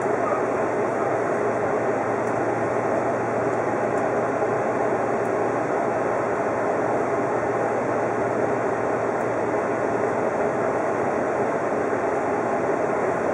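Steady running noise of an Odakyu 50000-series VSE Romancecar at speed, heard from inside its front cabin.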